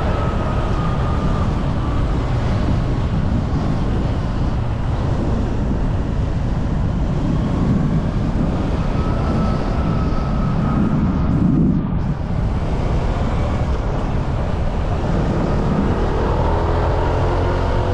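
Motorbike running at road speed, its engine hum rising and falling faintly in pitch beneath heavy wind rush on the microphone, with a brief easing about twelve seconds in.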